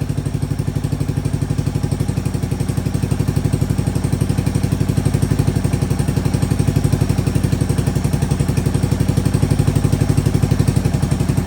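Yamaha SR400's air-cooled single-cylinder four-stroke engine idling steadily, with a rapid, even beat of about eight firing pulses a second, growing slightly louder over the first few seconds.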